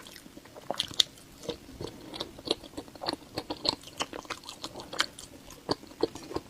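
Close-up chewing and biting of a soft whole-wheat pastry with purple sweet potato and chewy mochi filling: irregular wet smacks and small clicks of the mouth.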